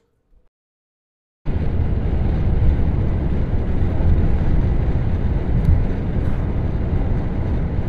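About a second and a half of silence, then a steady low vehicle rumble.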